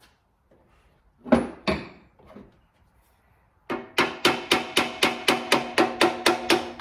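Hammer blows on the steel parts of an old drill press's spindle assembly during disassembly: two sharp knocks, then a quick even run of about a dozen strikes, about four a second, each one leaving the metal ringing.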